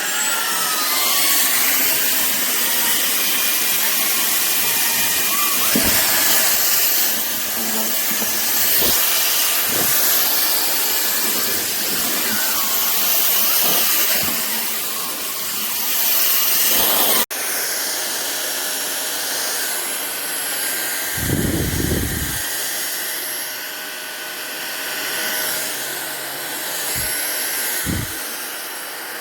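SunSare cordless stick vacuum cleaner running, a steady rushing of air with a high whine, with a few short low bumps along the way. The sound drops out for an instant a little past halfway.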